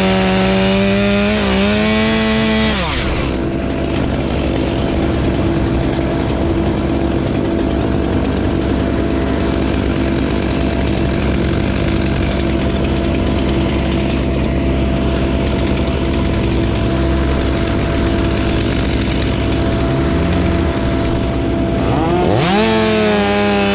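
Chainsaw at full throttle, which cuts back after about three seconds and opens up again near the end. A steady lower engine drone runs underneath throughout.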